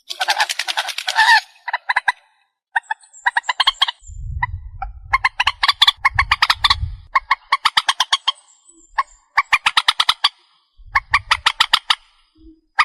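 Swamphen (chim trích) calling: harsh, rapidly pulsed calls in repeated runs with short gaps between them. A low rumble runs under the calls from about four seconds in.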